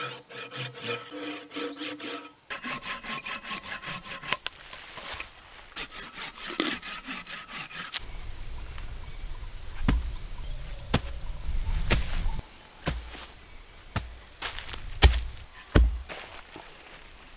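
Hand saw cutting wood in quick, even back-and-forth strokes, the blade ringing slightly. About eight seconds in the sawing stops and a series of sharp knocks and low thuds follows, the loudest near the end.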